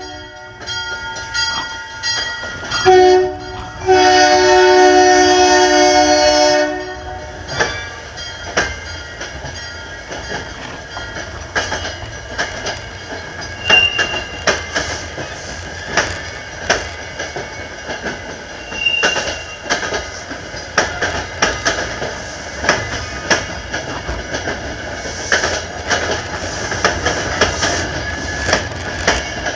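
Commuter train's multi-chime horn sounds in short blasts, ending with one long blast a few seconds in. Then the coaches' wheels click steadily over the rail joints as the train pulls away, with two brief wheel squeals.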